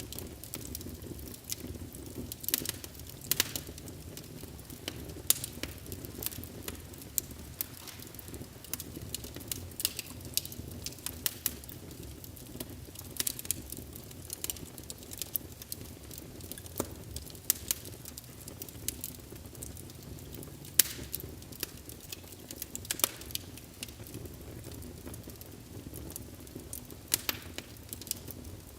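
Wood fire burning in a fireplace: a steady low rush of flames with frequent sharp, irregular crackles and pops from the burning logs.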